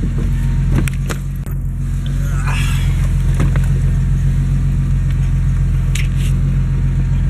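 Ford Mustang engine idling with a steady low rumble, along with a few short clicks and knocks from inside the car.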